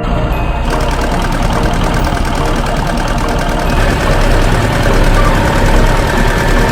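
A vehicle engine running steadily at idle, a heavy machine's engine sound effect, growing a little louder past the middle.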